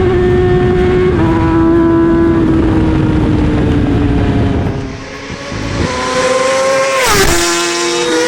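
Motorcycle engine under way, its pitch holding level and then dropping in steps as it shifts up. Near the end the revs climb and then drop sharply.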